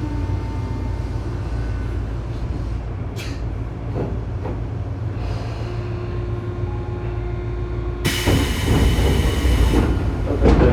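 Tobu 9000 series electric train running slowly, heard from directly above car MoHa 9204's armature chopper, the unit known for its abnormal chopper noise: a steady low rumble with thin steady chopper tones. About eight seconds in a loud hiss joins for two seconds.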